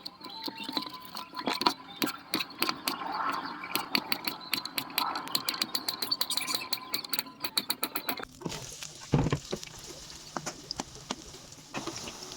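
Cooking noises: quick, irregular clicks and taps for about eight seconds, then a softer steady hiss.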